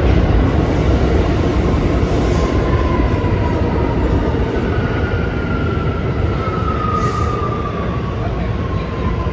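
Kawasaki R211A subway train moving through the station with a steady heavy rumble of wheels on rail. Faint high wheel squeal whines over it, sliding gently down in pitch, and the sound eases off slightly near the end.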